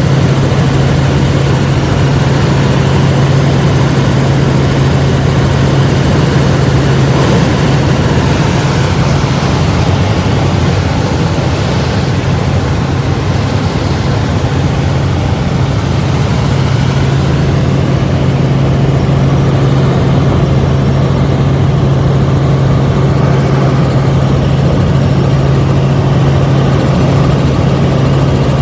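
Helicopter in flight heard from inside the cabin: loud, steady engine and rotor drone with a strong low hum that holds unchanged throughout.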